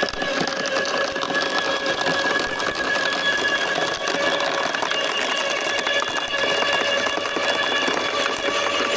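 Bosch electric wood chipper running steadily: a constant motor whine with a dense crackle over it.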